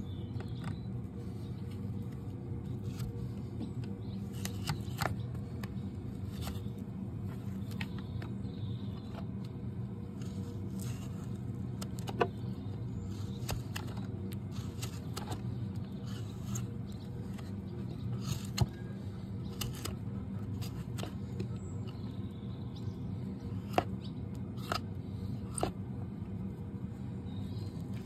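Tools cutting and scraping a Shire horse's hoof: irregular sharp clicks and snips over a steady low hum.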